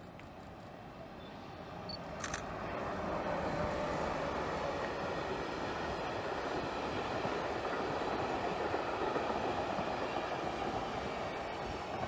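ÖBB Class 1293 (Siemens Vectron) electric locomotive hauling a train of yellow track-material wagons past: wheel and rail running noise builds over the first few seconds, then holds steady as the wagons roll by.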